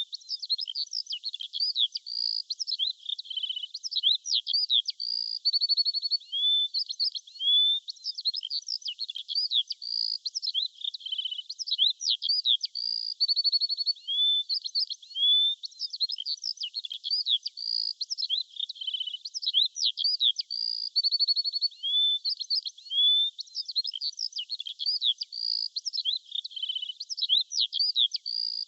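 Songbirds singing: quick high chirps, rising whistles and short trills, with the same run of calls coming round again every nine seconds or so. The sound is thin and high, with nothing low beneath it.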